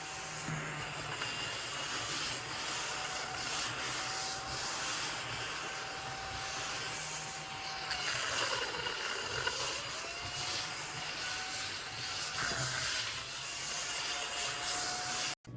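Battery-powered ODISTAR mini desktop vacuum cleaner running with a steady whine while its brush rubs over a surface. About eight seconds in, the whine dips in pitch and climbs back, and near the end the sound cuts off suddenly.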